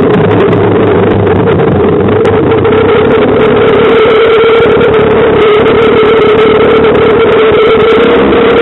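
Small outboard motor running steadily at constant speed, a loud, even hum with a strong, steady pitch.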